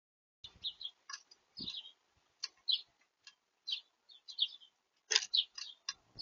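Small birds chirping at a feeder: a quick series of short, high chirps with brief silent gaps, mixed with a few sharp clicks, heard through the bird-feeder camera's microphone.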